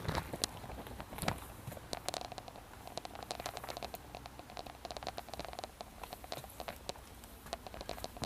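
Irregular series of light clicks and taps, coming quicker from about two seconds in, over a low steady hum.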